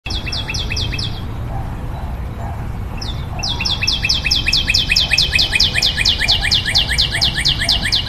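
A songbird calling in rapid series of short, downward-sweeping notes, about six a second: a brief run at the start, then a longer run from about three and a half seconds in. A steady low rumble lies underneath.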